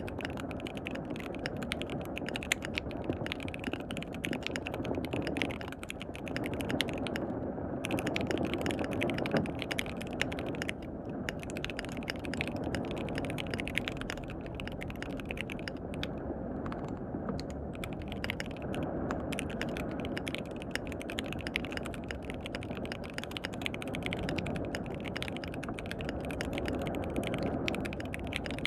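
Continuous fast typing on a KBD67 Lite R3 mechanical keyboard with lubed linear switches: a dense, irregular stream of key clacks. Steady rain sounds underneath.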